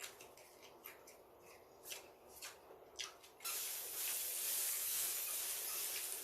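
Close-miked eating sounds: a run of small sharp mouth clicks while chewing, then, about halfway through, a steady rubbing hiss that lasts about three seconds.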